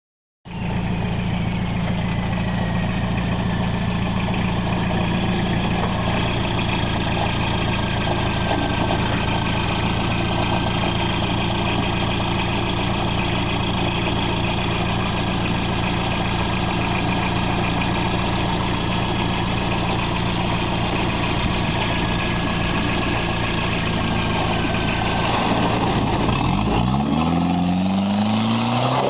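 Toyota Land Cruiser engine running steadily at low revs as the truck crawls down a steep dirt bank. Near the end it revs up as the truck drives into a muddy pond, with water splashing.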